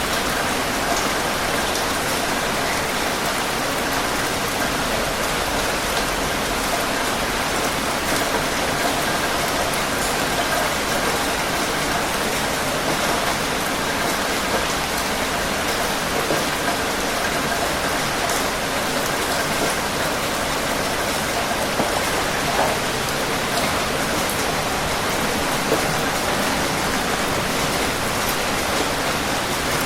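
Steady rain falling, an even hiss of many drops hitting a surface, with a few slightly louder drop impacts standing out now and then.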